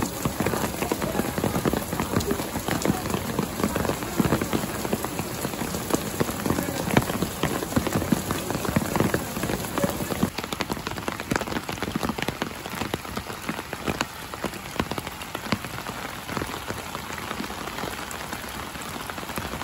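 Heavy rain pouring onto a wet street: a dense, steady hiss full of sharp ticks from individual drops.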